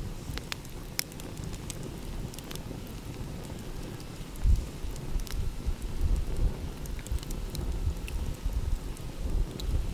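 Wood fire crackling with scattered sharp pops, over a steady low rumble of wind and surf that surges louder in uneven gusts from about halfway through.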